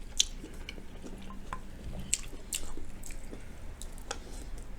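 Chewing General Tso's cauliflower: soft, wet mouth clicks and smacks at irregular intervals.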